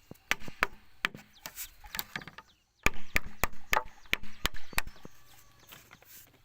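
Chopping wood: a series of sharp chops, sparse at first, then a quicker run of about three a second from about three seconds in.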